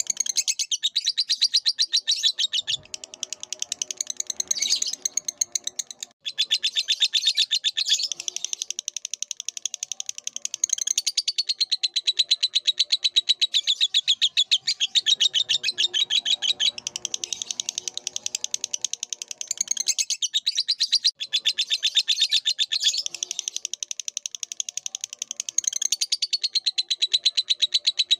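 Lovebird song: a long, fast chattering trill of high chirps, breaking off briefly about six seconds in and again around twenty-one seconds.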